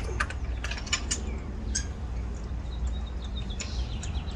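A few light clicks and clinks of hand work on the engine in the first couple of seconds, then faint short high chirps, possibly birds, near the end, over a steady low hum.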